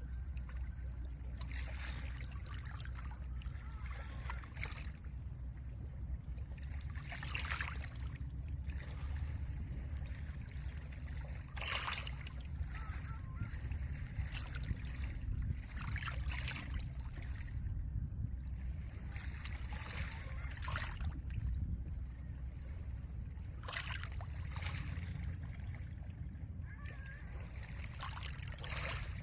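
Small lake waves washing in over a pebble shore, with a hissing wash every three to four seconds over a steady low rumble of water and wind.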